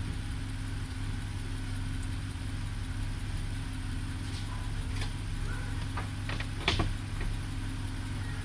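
BMW 328i's 3.0-litre inline-six idling steadily, with a few light clicks about two-thirds of the way through.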